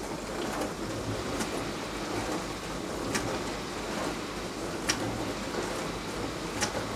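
Beko DWD5410W dishwasher running its wash cycle: the pump hums steadily while water sprays inside the tub. A sharper splash or knock comes about every two seconds.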